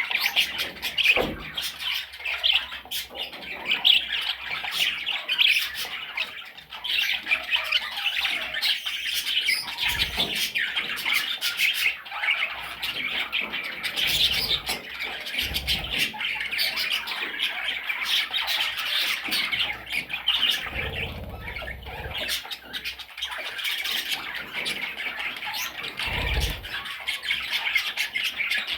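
A budgerigar chattering without pause, a fast warble of short squawks, chirps and clicks. A few low thumps come through, one near the end.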